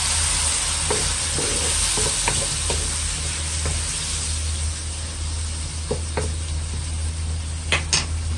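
Chicken pieces sizzling in a nonstick wok with a little water just added, a steady hiss, while a wooden spatula stirs them, scraping and tapping against the pan in a few sharp clicks, the loudest two near the end. A low steady hum runs underneath.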